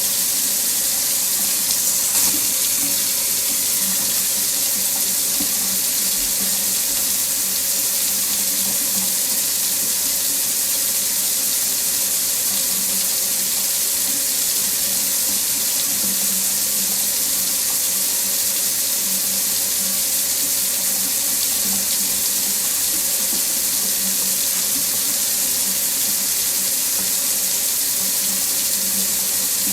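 Water faucet running steadily: an even, unbroken hiss of flowing water.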